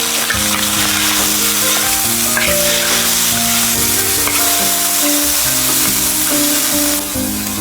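Food frying and sizzling in hot oil; the sizzle eases a little near the end. Background music of held melodic notes plays over it.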